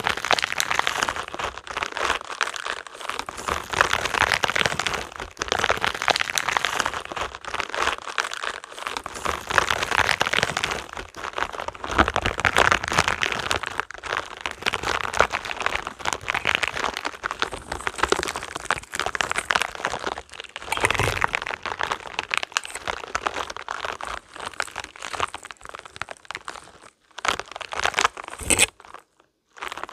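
Spiky rubber balls being handled, giving a dense crackling, crinkling rustle, with two short breaks near the end.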